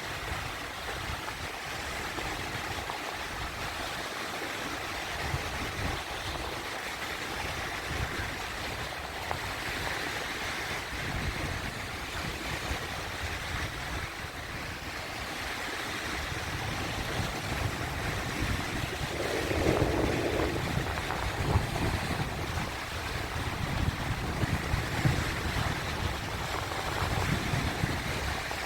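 Sea waves: a steady rush of surf, swelling louder about two-thirds of the way through with one stronger surge.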